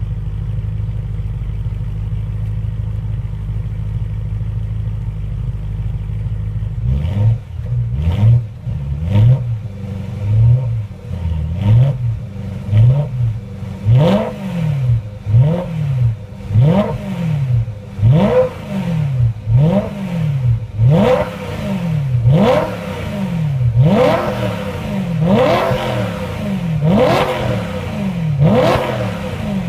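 BMW E92 M3's 4.0-litre V8 through a BMW Performance exhaust back box, idling steadily. About seven seconds in it is blipped with the throttle, rising and falling roughly once a second, and the revs climb higher with each blip toward the end.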